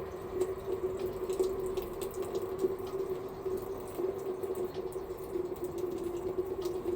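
Water running steadily from a tap into a sink, with small irregular splashes.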